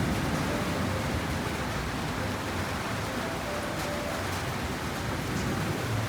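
Steady rain falling, an even hiss of rain with no let-up.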